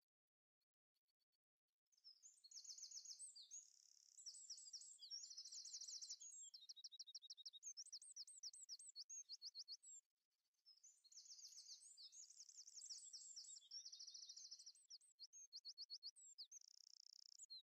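A songbird singing fast, high chirps and trills, in two long runs of song about eight seconds each with a short break near the middle.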